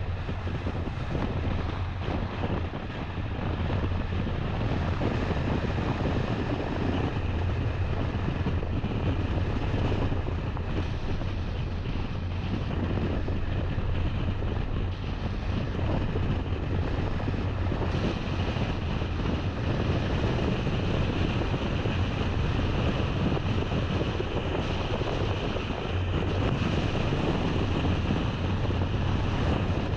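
Steady noise of a car driving: a low hum of engine and tyres on the road, mixed with a rush of wind.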